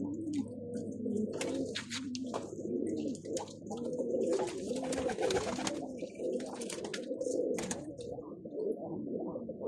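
Many pigeons cooing at once, their low arching coos overlapping. Several short noisy bursts break in, the longest about halfway through.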